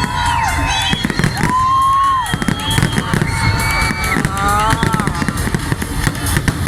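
Fireworks going off in quick succession, a dense run of bangs and crackles, with a melody of held, sliding notes playing over them.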